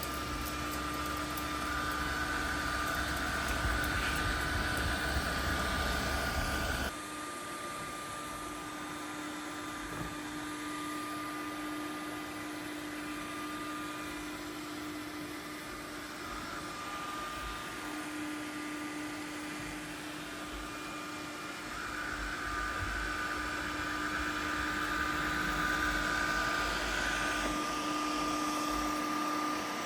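A steady mechanical hum carrying a few faint steady tones, like a fan or small motor running. It drops abruptly in level about seven seconds in and swells again later.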